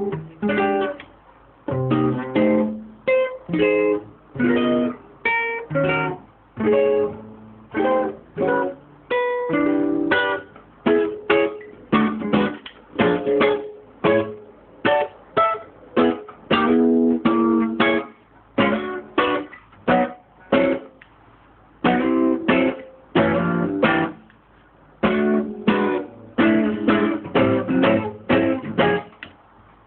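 Instrumental music on a plucked string instrument, with single notes and chords struck one after another and each left to ring and fade.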